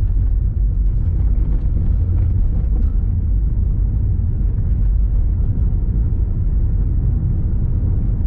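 Steady low rumble of a car driving at a constant pace, engine and tyre noise heard from inside the cabin.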